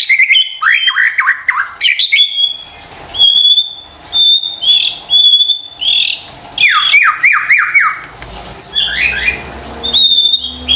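White-rumped shama (murai batu) singing a fast, varied song: clear held whistles alternating with quick runs of downward-sweeping notes and harsher rasping phrases.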